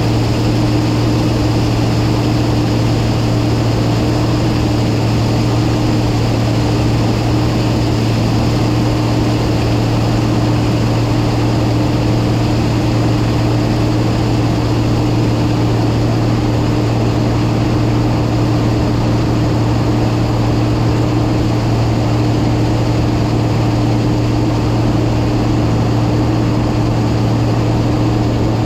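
Massey Ferguson 9690 combine harvester running steadily while shelling corn, its engine drone and threshing noise holding one even pitch throughout.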